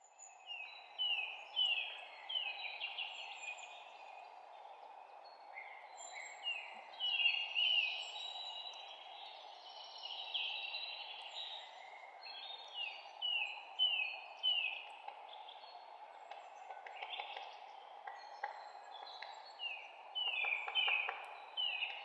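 Songbirds singing: repeated quick series of down-slurred whistled notes, with other chirps mixed in, over a steady background rush.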